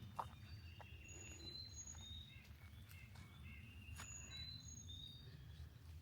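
Faint birdsong on a wooded trail: a short phrase of high whistled notes stepping down in pitch, sung twice about three seconds apart, over a low steady rumble. A single sharp click sounds just after the start.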